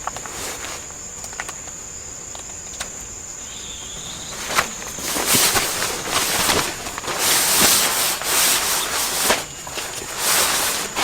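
Grass insects trilling with a steady high tone. About four and a half seconds in, a run of loud rubbing, scraping strokes begins and lasts for some six seconds.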